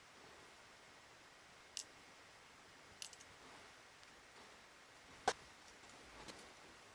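A few short, separate clicks and taps over a quiet background, the loudest about five seconds in: small hard parts or tools being handled at a workbench.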